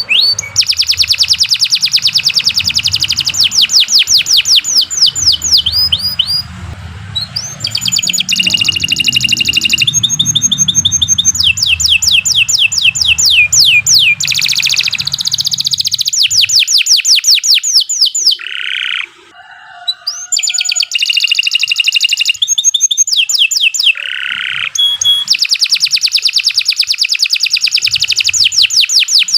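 Domestic canary singing a long, continuous song of fast repeated trills and rolls, with a brief pause about two-thirds through.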